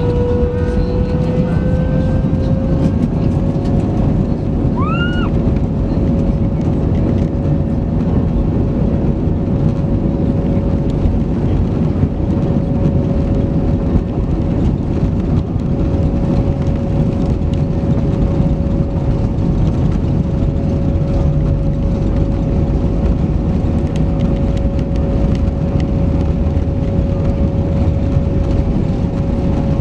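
Airbus A319 jet engines heard from inside the cabin during departure, a loud steady roar with a whining tone that rises slightly in the first few seconds and then holds level. A short rising chirp sounds once about five seconds in.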